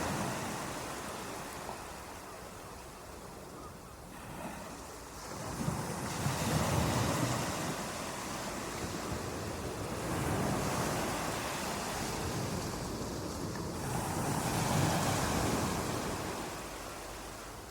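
Ocean surf on a beach: waves breaking and washing in, in slow swells every four or five seconds.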